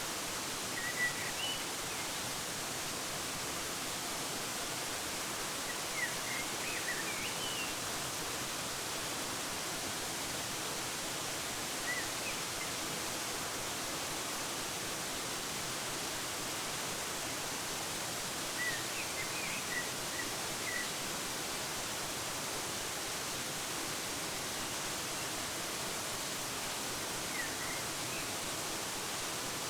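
Steady rushing of a waterfall, with small birds chirping in brief scattered bursts, five or so times.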